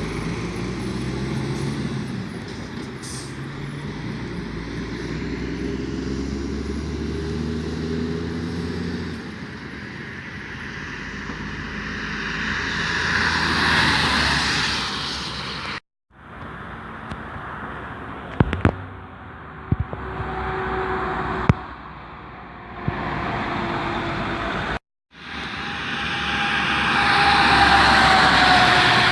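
Roadside traffic made of several short recordings cut together. First a truck's engine runs low and steady, then vehicles swell up and fade away as they pass, twice loudly, once around the middle and once near the end.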